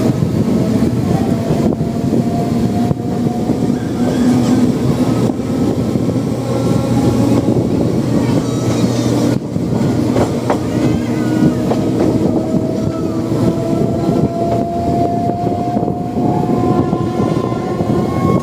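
Passenger train running on the rails, heard from on board: a steady rumble of wheels and coaches, with a faint whine that rises slowly in pitch.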